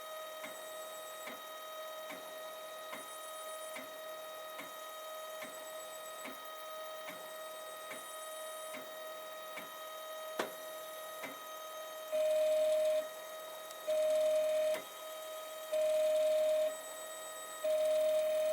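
Stepper motors of a Protomaker 3D printer whining steadily during a dry test run, with faint regular ticks. About two-thirds of the way through, the whine grows louder in four one-second bursts about two seconds apart as the motors drive. The bottom Z-axis stepper is running so badly that it makes the axis move all over the place, a sign of a damaged stepper motor.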